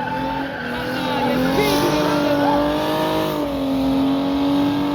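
Car engine held at high, steady revs during a drifting display, its pitch rising a little about two seconds in, with tyre noise from the sliding car.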